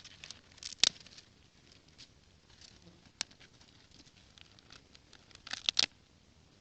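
Dry twigs and branches crackling and snapping as they are handled and broken: a sharp snap about a second in, a single click a little past the middle, and a quick run of snaps near the end, with faint crackles between.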